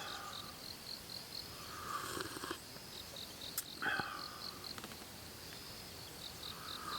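Noodles being slurped twice, short noisy sucks about two seconds apart. Under them an insect chirps in quick, even, high pulses, about four or five a second, with brief pauses.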